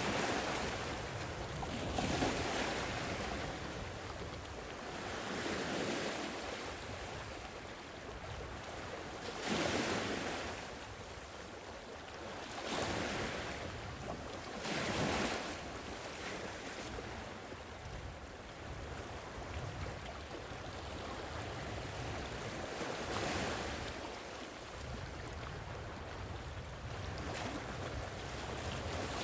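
Sea waves breaking and washing up the shore, one surge every two to four seconds over a steady hiss of surf, some surges louder than others.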